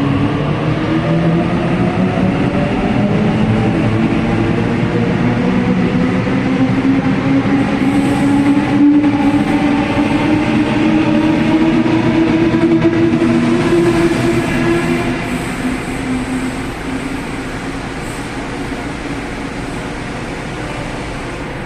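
A train running past at a station platform: a steady mechanical hum made of several tones that glide slowly, over rail noise. It stays loud for about fifteen seconds, then eases off as the train moves away.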